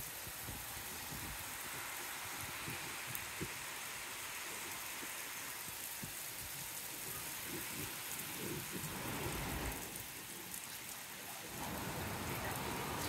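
Heavy rain pouring steadily onto concrete rooftops, with scattered low thumps; the rain grows louder and fuller near the end.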